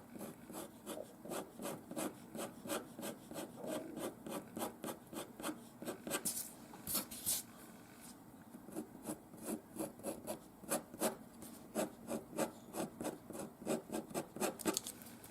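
InkJoy coloured pen colouring in with quick back-and-forth strokes, about three or four a second, with a short pause about eight seconds in.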